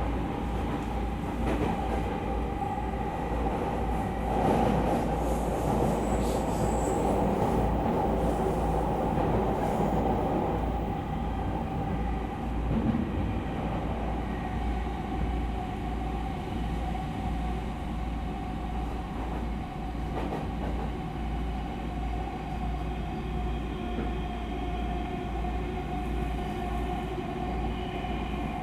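Running sound heard inside an E231 series electric train car: steady rumble of wheels on rail, with a steady whine from the traction equipment.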